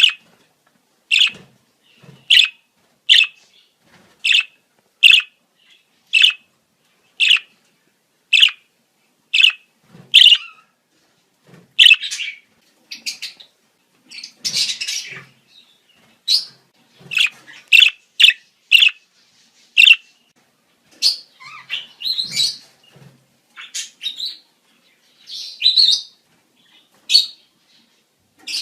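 Budgerigars chirping in breeding-season calls. For the first ten seconds there is one short, sharp chirp about every second, then faster, more varied chirps and chattering warbles.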